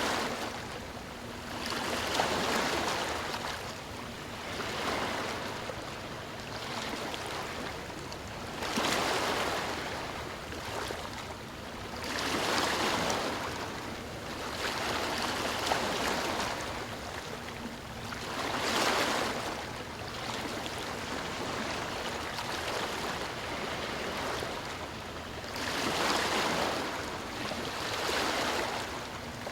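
Sea waves breaking and washing up the shore, the surf swelling and falling back every few seconds at irregular intervals.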